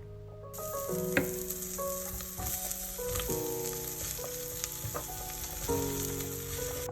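Food sizzling as it fries, a steady hiss that starts suddenly about half a second in, with soft background music.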